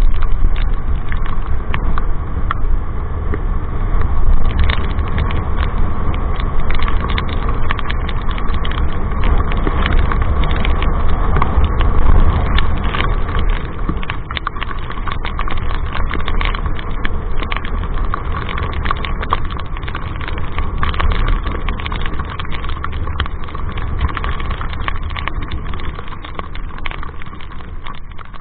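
Motorcycle riding along: a steady rumble of engine and wind on the microphone, with a constant hum and many sharp ticks throughout.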